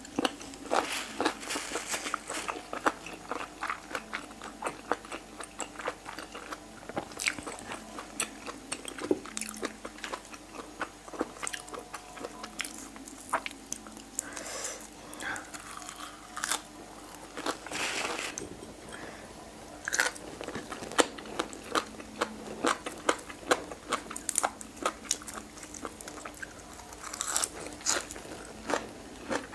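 Close-miked chewing of boiled pig ear, the cartilage crunching in irregular sharp crackles, with bites of fresh greens mixed in.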